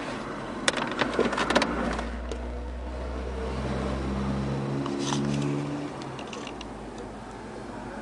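Plastic dashboard trim parts being handled: a quick run of clicks and knocks about a second in, then a few lighter clicks, over a low steady hum.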